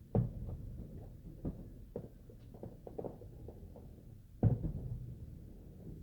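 Distant fireworks going off: a series of low booms, the two loudest near the start and about four and a half seconds in, each trailing off in a rolling rumble.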